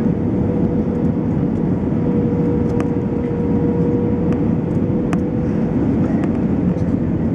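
Steady cabin noise of an Airbus A320-214 heard from inside the cabin: a low engine roar with a steady hum running through it. A few faint clicks sound from the cabin.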